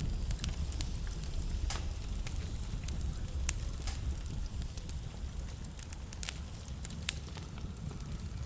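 Wood fire burning in a fireplace: a steady low rumble of flames under irregular crackles and sharp pops from the burning logs.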